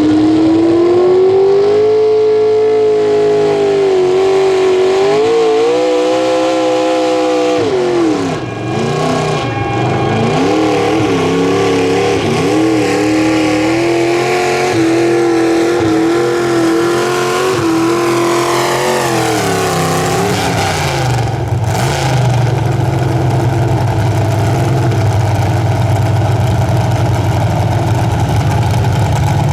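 Pro Stock mini pulling truck's engine running at high revs under load, its pitch wavering up and down and dipping briefly about eight seconds in. About twenty seconds in it falls away to a low, steady run.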